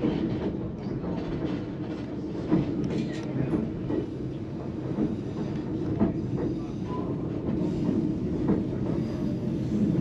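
Vintage narrow-gauge passenger coach of the White Pass & Yukon Route railway rolling along the track: a steady low rumble of the wheels, with a few short sharp knocks from the running gear.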